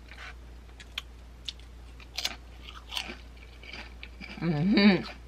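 Close-miked chewing of a mouthful of food, with sharp wet mouth clicks and smacks every second or so. A short voiced sound follows near the end.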